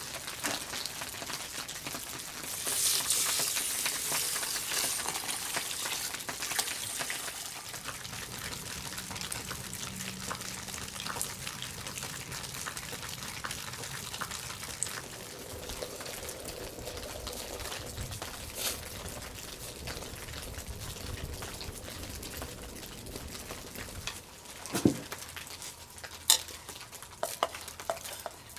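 Food sizzling in a hot pot over a campfire as rice is cooked. The hiss is loudest a few seconds in, then settles to a steady sizzle, with a few sharp knocks near the end.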